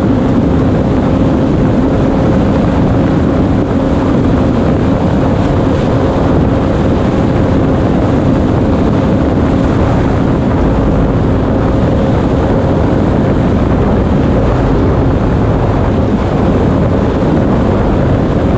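Jet ski engine running at a steady pitch, held at constant speed, with heavy wind noise on the microphone.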